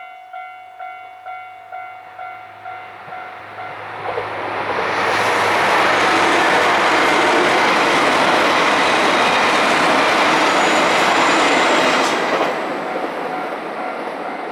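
Railway level-crossing warning bell ringing about twice a second. From about four seconds in, a JR Hokkaido 261 series diesel limited express passes over the crossing, a loud steady rush of wheels and engines that drops away suddenly about twelve seconds in.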